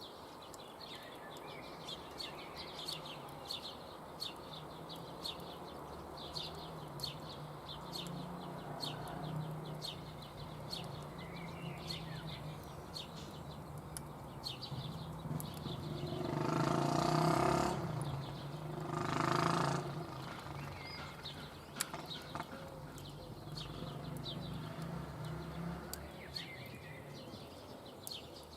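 Campfire crackling, with frequent small pops and a low steady hum underneath. About halfway through come two loud pitched sounds, each about a second long, a second apart.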